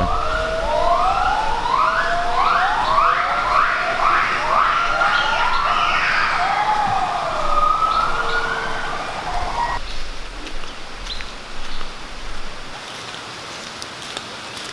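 White-handed gibbons calling: a series of rising whooping notes that come faster and climb higher, peaking about six seconds in, then a few slower notes that stop about ten seconds in.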